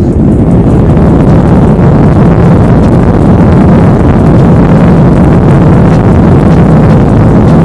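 Airliner engines run up to takeoff power and stay there, a loud steady noise heard from inside the passenger cabin during the takeoff run. The noise swells in the second before it reaches full level.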